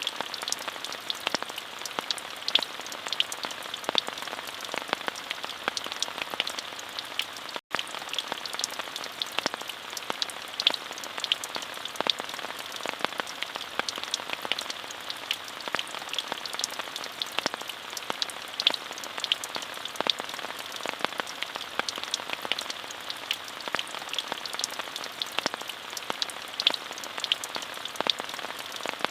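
Steady rain: a dense, even hiss with many sharp individual drop hits. The sound cuts out for a split second about eight seconds in.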